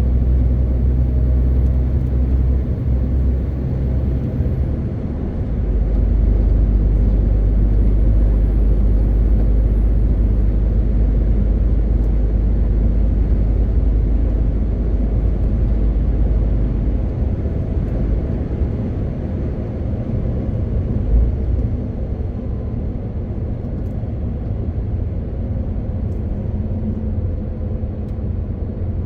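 Diesel engine of a MAN TGX 18.520 truck running steadily under way, with road and tyre noise. The low engine drone shifts about five seconds in and again around seventeen seconds in, and there is a brief bump a little after twenty seconds.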